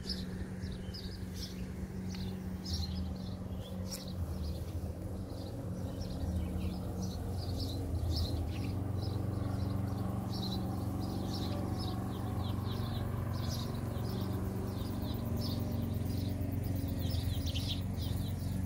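Small birds chirping in quick, repeated short calls all through, over a steady low hum.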